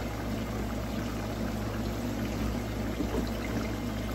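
Food cooking on a gas stove: a steady sizzling hiss from plantains frying in oil and a pot simmering, with a constant low hum underneath.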